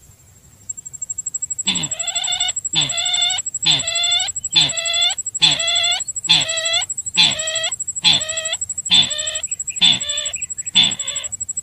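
Sintar bird call played as a lure: a rough, ringing call repeated about once a second, eleven times, beginning about two seconds in. A thin, steady high whine runs under it.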